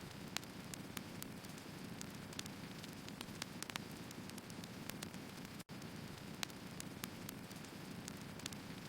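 Wood fire burning: a steady low hiss with irregular sharp crackles and pops from the burning firewood. The sound cuts out for an instant about five and a half seconds in.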